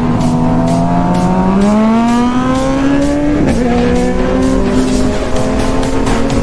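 Inline-four sportbike engine under hard acceleration, its pitch climbing steadily, then dropping sharply at an upshift about three and a half seconds in and rising again slowly.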